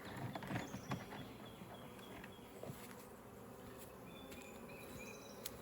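Honeybees buzzing steadily at the hive, with a few faint knocks.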